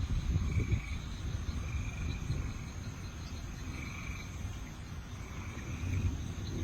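Night chorus of insects and frogs: a steady high insect drone with short trilled calls repeating every second or so, over a low, gusty rumble.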